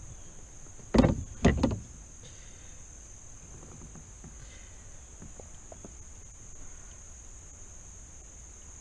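Two loud knocks about a second in as the angler handles the bass and gear to measure it, over a steady high-pitched drone of insects.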